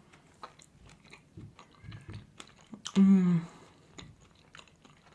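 Close-up chewing and small wet mouth clicks from eating a forkful of strawberry pie with a shortbread base. About three seconds in there is one short, loud hummed 'mmm' of enjoyment.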